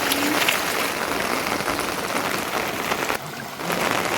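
Steady rain falling, a dense hiss of drops pattering on surfaces. It dips briefly a little after three seconds in.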